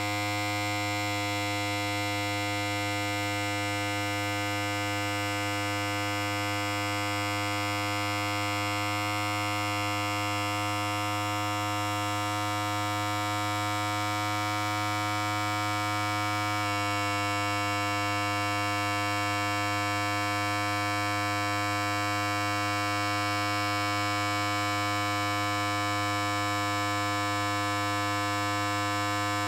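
Electric hair clipper running continuously, a steady low buzz rich in overtones. Its tone shifts slightly a little over halfway through.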